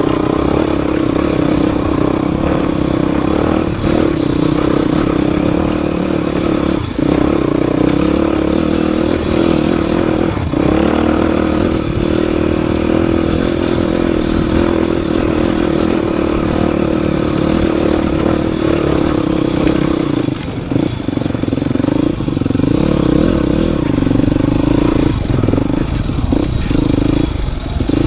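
Dirt bike engine running steadily, with brief dips every few seconds as the throttle eases off.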